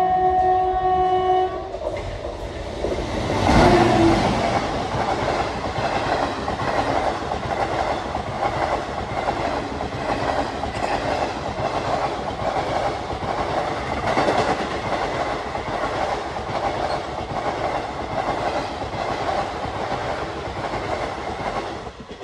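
Shaktipunj Express passing at speed: its locomotive horn sounds a long blast that cuts off about a second and a half in, then a steady rumble with wheels clattering over the rail joints as the passenger coaches go by. It is loudest as the locomotive passes about three to four seconds in and fades as the last coach clears near the end.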